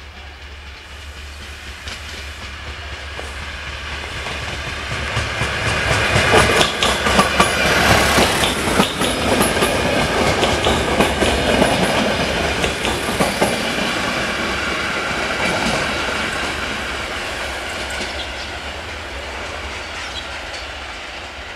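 Ex-DB diesel multiple unit passing close by, with its engine's steady low drone and wheels clicking over the rail joints. It grows louder as it approaches, is loudest with a rapid run of clicks for several seconds midway, then fades as it pulls away.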